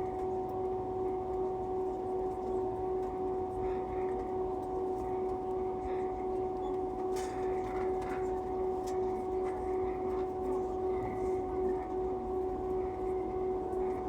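Airbus A320-200 cabin noise: the steady drone of the jet engines and airflow heard from inside the cabin, with a constant two-note hum over a low rumble.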